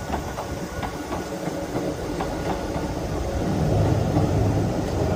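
Hakone Tozan Railway Moha 1 electric railcar running, its wheels clicking over rail joints, with a low rumble that grows louder about three and a half seconds in.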